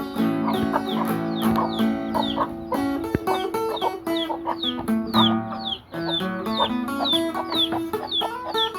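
Acoustic guitar being plucked, with chickens calling over it in a quick series of short, falling calls, about two a second.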